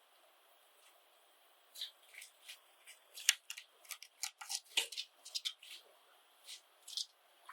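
Pet Java sparrows giving a flurry of short, sharp chirps and clicks, thickest in the middle of the stretch, with a few more near the end.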